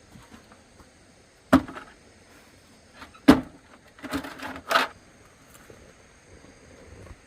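Sharp knocks: one about a second and a half in, a louder one a little past the middle, then a quick run of several just after.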